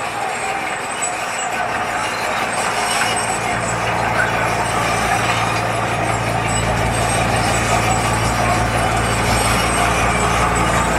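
Heavy construction machine's engine running over a steady mechanical noise, a deep drone coming in about three seconds in and growing louder and heavier about halfway through.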